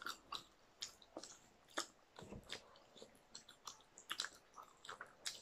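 Mouth sounds of biting and chewing crispy fried chicken: faint, irregular wet clicks and smacks.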